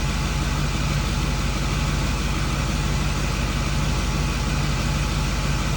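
Ford 6.4 Powerstroke twin-turbo V8 diesel idling steadily.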